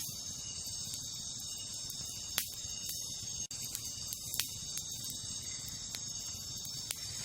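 Wood campfire crackling, with a few sharp pops, the loudest about two and a half and four and a half seconds in, over a steady high-pitched chorus of night insects.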